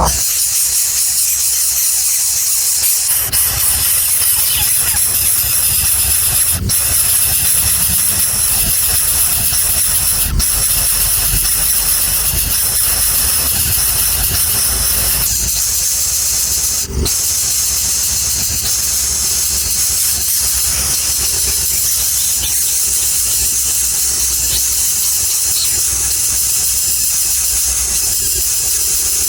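Steady, loud, high-pitched hissing drone with a few sharp clicks.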